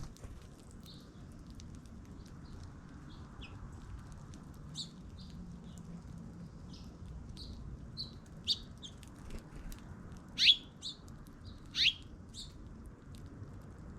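Small birds chirping, with short scattered chirps throughout and two louder sweeping calls near the end.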